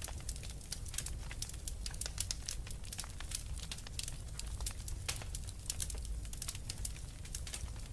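Fire burning in a fireplace, crackling with many irregular sharp snaps and pops over a steady low rumble.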